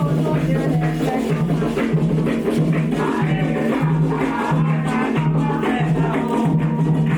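Candomblé ritual music: drums and a shaker keep a steady, driving rhythm under voices singing a chant.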